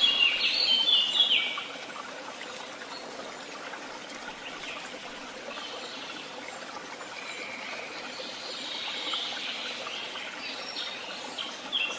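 Woodland songbirds singing: a loud run of clear whistled notes jumping between pitches in the first second and a half, then fainter song over a steady background hiss.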